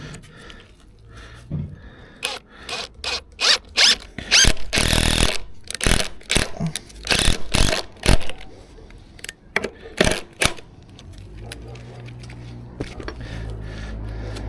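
Timber formwork being worked by hand: a run of irregular scraping and knocking strokes for about eight seconds, one of them a longer scrape. A steady low hum builds up near the end.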